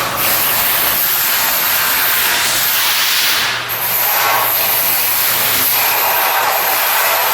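A loud, steady hissing noise with a faint hum underneath, easing briefly about three and a half seconds in.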